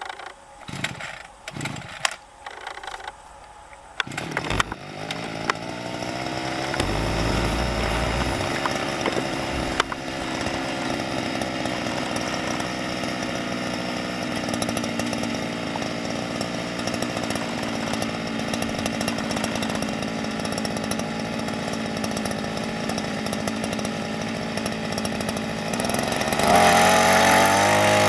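Small petrol engine of a homemade boat: a few knocks at first, then the engine comes in about four seconds in and runs steadily, revving up louder near the end.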